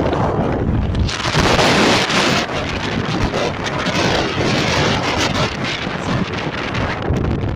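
Wind buffeting the microphone in a steady rush, with a stronger gust about a second in that lasts a second or so.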